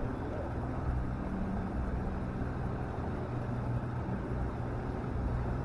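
A newly fitted boat motor running steadily with the boat under way, an even low hum under the rush of water and air.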